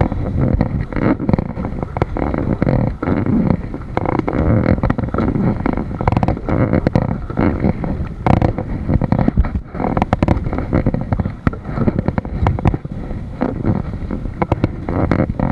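Loud, gusty rumbling of wind buffeting the microphone on a kayak, broken by frequent irregular knocks and bumps.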